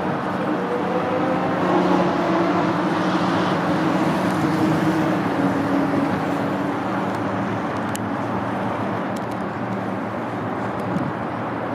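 Steady road traffic noise, with a vehicle passing a few seconds in, its tone slowly falling.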